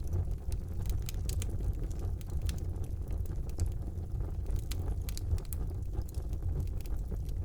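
Wood fire burning in a fireplace: a steady low rumble of the flames with frequent sharp crackles and pops from the burning logs, several a second.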